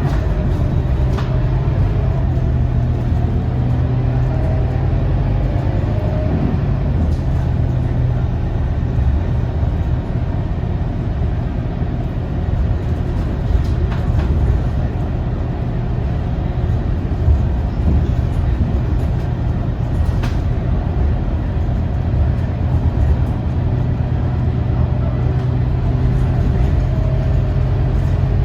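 Scania K230UB single-deck bus's rear-mounted diesel engine running steadily with road and tyre noise, heard from inside the cabin while the bus cruises.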